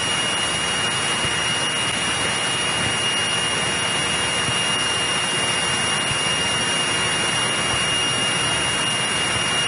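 Cabin noise of a 1963 Cessna 172E in the climb after takeoff: its Continental O-300-D six-cylinder engine and propeller running at steady climb power, an even drone with a thin high whine over it.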